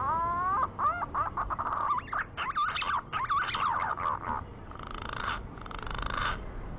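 Green pigeon (punai) call: a run of rising, warbling whistles, then two short rougher phrases near the end, played as a lure call to draw green pigeons in.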